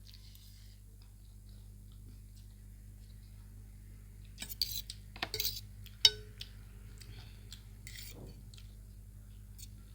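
Cutlery clinking and scraping against a plate of noodles, in a short flurry about halfway through with a sharp clink just after and another near the end, over a steady low hum.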